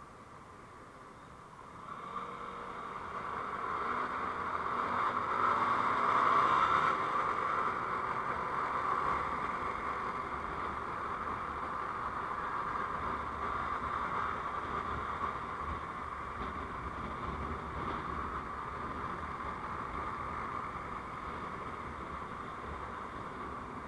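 A vehicle pulls away: engine and road noise build up about two seconds in, with the engine pitch rising to a peak around six seconds, then run on steadily while cruising.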